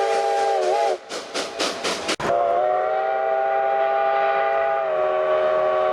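Steam locomotive chime whistle blowing a multi-note chord. It breaks off about a second in for a run of rapid hissing puffs, then sounds again in a long steady blast that dips slightly in pitch near the end.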